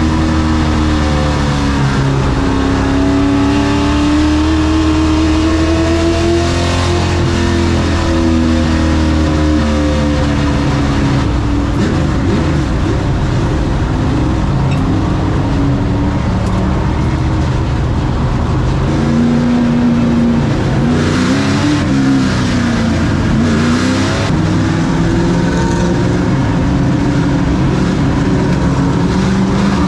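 Race truck engine running hard, its pitch rising and falling over and over as it accelerates and lifts.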